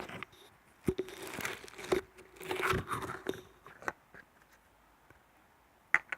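Close-up ASMR trigger sounds: a few sharp crunches or clicks, with short rustling hisses between them over the first three seconds or so. After that it goes quieter, with one more sharp click near the end.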